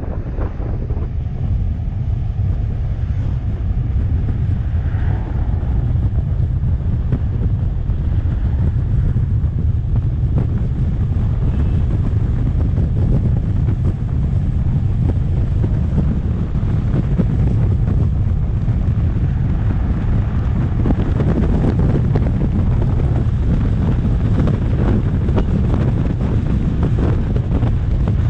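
Wind buffeting the microphone of a moving electric scooter rider, a steady, loud low rumble that lasts throughout.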